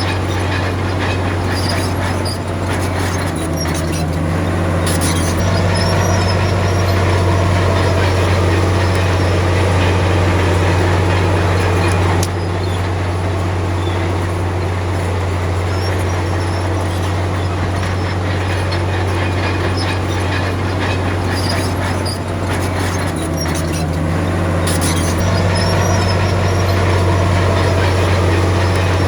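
Komatsu D53P crawler bulldozer's diesel engine running steadily under load, with faint clanks and squeaks from its steel tracks. The engine note shifts briefly a few seconds in and again about three-quarters of the way through.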